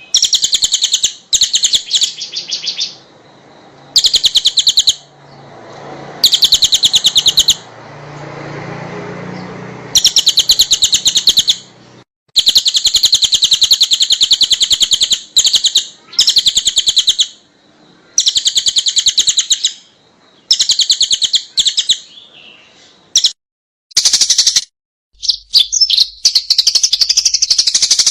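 Small songbird singing rapid, high-pitched trills in repeated bursts of one to two seconds separated by short pauses, a masteran recording of the kind played to teach song to kept songbirds.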